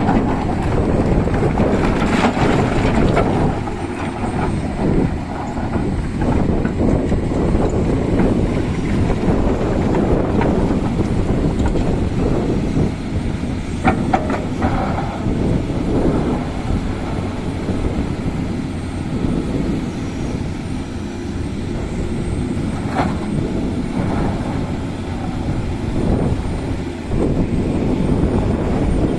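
Tata Hitachi excavator's diesel engine running steadily under working load, with a few sharp metallic clanks about halfway through and again later.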